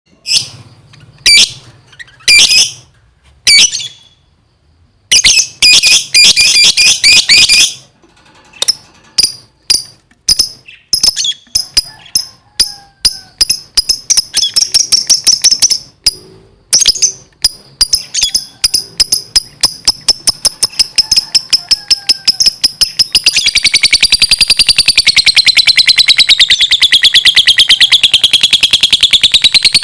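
Lovebird in full, nonstop song: sharp high chirps in quick runs, speeding up into a fast continuous trill about 23 seconds in.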